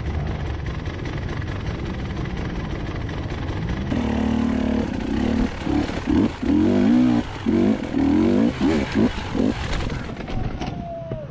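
Enduro dirt bike engine running at idle, then revved in a quick series of short blips from about four seconds in to nine and a half seconds in.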